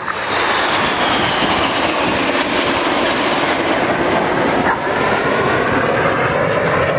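Jet noise from the Red Arrows' formation of BAE Hawk trainers flying past overhead, a steady rushing sound with a faint whine that falls in pitch over the first few seconds.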